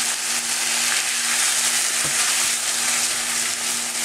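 Shredded turkey and gravy frying in a nonstick skillet with a steady sizzle, stirred with a silicone spatula; a light knock about two seconds in.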